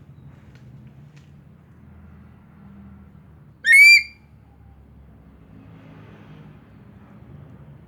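A tame eagle gives one short, shrill, piercing call, about half a second long and a little under four seconds in, rising in pitch and then falling away. A steady low hum runs underneath.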